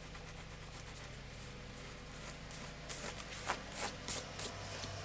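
Several short scratchy rubs on paper, from wiping excess glue off a collage page, bunched in the second half, over a steady low hum.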